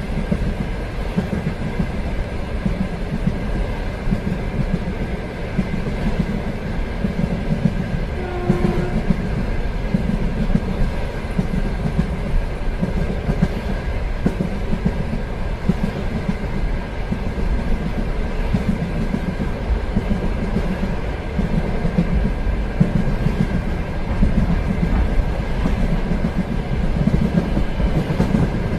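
Train running on rails, a steady rumble with the wheels clicking over the rail joints.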